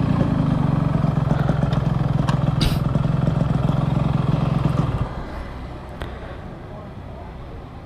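Yamaha RX-King's two-stroke single-cylinder engine running steadily at idle, then shut off about five seconds in, leaving faint street noise.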